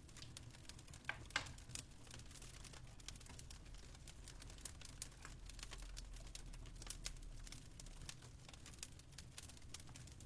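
Fireplace crackling softly with irregular small pops, two louder ones about a second in, over a low steady hum.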